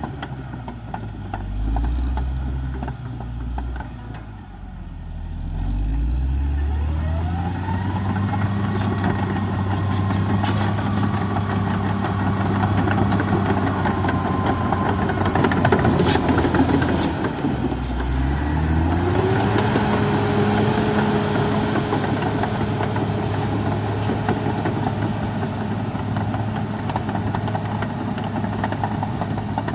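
Caterpillar D6R XL bulldozer's diesel engine revving up and working under load, with a whine that climbs in pitch alongside it. The engine falls back briefly about two-thirds of the way through, then revs up again, and a few sharp knocks come just before that drop.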